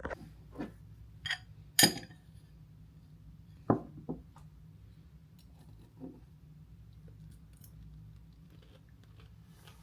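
A few short clinks and knocks of small hard objects being handled, loudest about two seconds in, with a low steady hum of room tone underneath.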